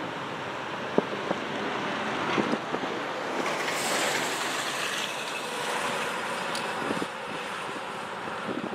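Strong wind rushing, with a swell about four seconds in and a few sharp knocks scattered through.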